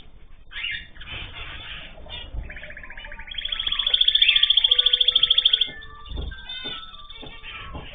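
Small cage birds chirping and singing together, with one loud, fast, even trill lasting about three seconds midway.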